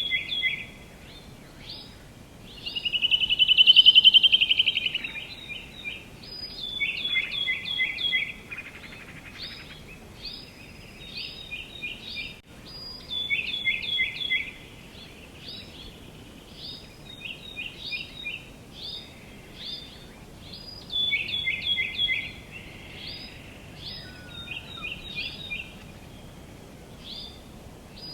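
Songbirds singing: short phrases of quick notes stepping down in pitch, repeated every few seconds, with one louder rapid trill about three seconds in.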